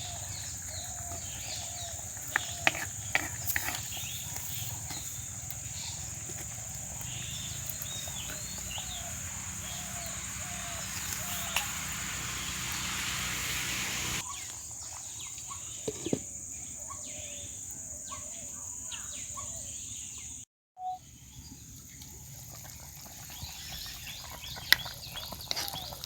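Rural outdoor ambience: a steady high insect drone like crickets, with chickens clucking in short repeated calls and a few sharp clicks and knocks. The drone and the background change abruptly twice, about two-thirds of the way in and again a little later.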